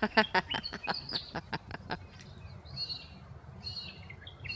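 Crow or raven making a rapid train of sharp clicks, about five a second for two seconds, as part of its courtship display with its mate. Softer high chirps follow.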